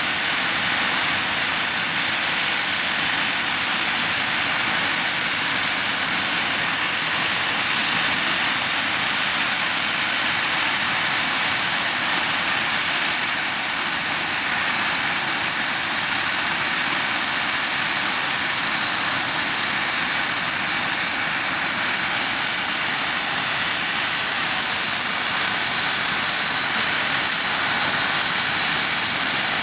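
Hawker Siddeley Nimrod MR2's Rolls-Royce Spey turbofan engines running steadily on the ground: a loud, even jet roar with a high-pitched whine held at one pitch.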